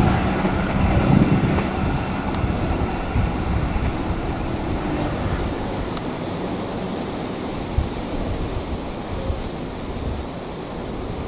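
KA Bengawan passenger train's carriages rumbling over the rails as the train runs away into the distance, a steady noise that slowly fades.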